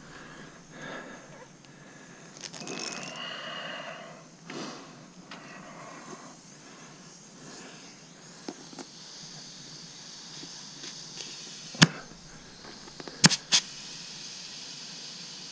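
Air chuck on a compressor hose working at the valve stem of a small pneumatic wagon tire. Faint handling noises come first, then a steady hiss of air filling the flat tire from about two-thirds of the way in, with three sharp clicks a couple of seconds after the hiss begins.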